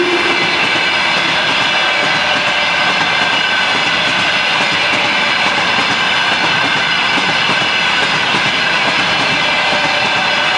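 Freight train rolling past at speed, its wagon wheels clacking over the rail joints under a steady high whine of several tones.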